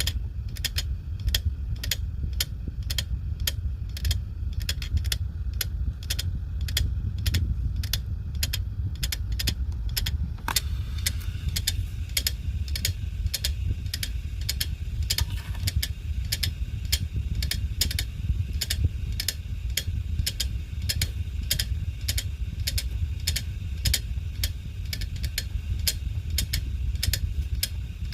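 Failing hard disk drive clicking repeatedly, about two to three sharp clicks a second over a steady low hum from the spinning drive; the abnormal clicking is the sign of a faulty drive. About ten seconds in a faint higher hiss joins.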